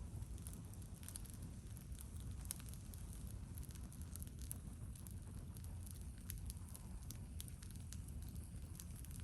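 Wood fire crackling, with many small irregular snaps over a steady low rumble.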